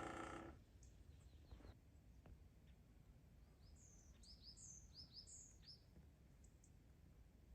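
Faint bird calls: a quick series of short, high chirps, each sweeping downward, in the middle, over quiet outdoor background. A brief, louder pitched call sounds right at the start.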